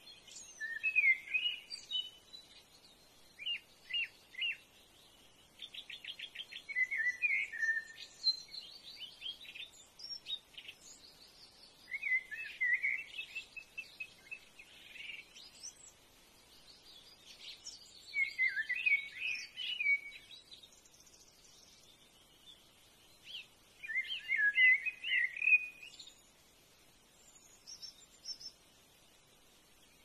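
Birdsong: short, twittering phrases repeated every few seconds, with a quick run of ticking notes about six seconds in and fainter, higher chirps between the phrases.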